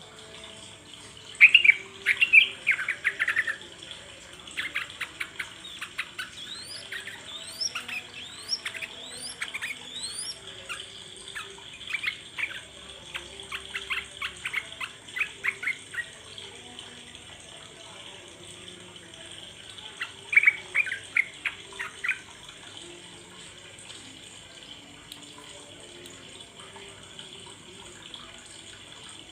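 Yellow-vented bulbul (trucuk) calls: rapid runs of sharp chattering chirps in two spells, the loudest at the start. A few short rising whistles come in between, over a faint steady high hiss.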